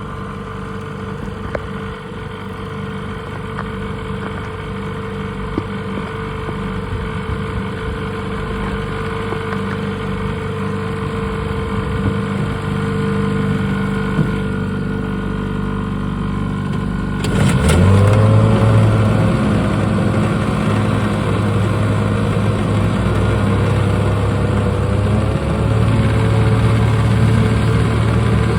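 Mercury Mark 6 two-stroke outboard motors from 1957 and 1958. One is running steadily; about seventeen seconds in, a second engine starts up with a click and catches, and the two then run together, louder.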